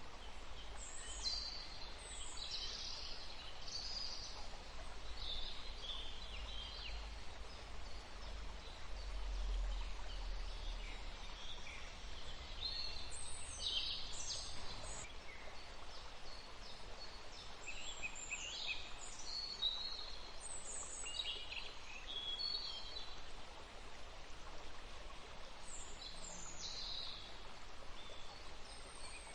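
Several small songbirds chirping and singing in short, overlapping phrases, over a steady faint low rumble.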